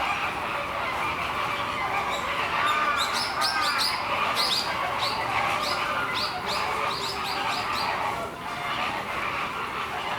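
Small birds chirping: a quick run of many short, high chirps lasting about five seconds, starting a few seconds in, over steady background noise.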